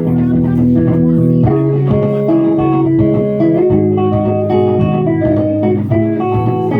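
Live electric guitar music, built up in layers with a loop station: several guitar parts sound at once over a low bass line, with notes held and repeating.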